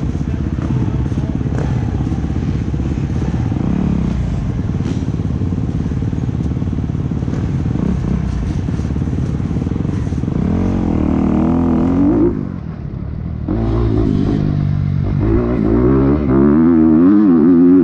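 Dirt bike engine running hard under throttle during a race. About twelve seconds in the throttle is briefly shut off, then the engine revs back up, its pitch surging up and down with throttle and gear changes.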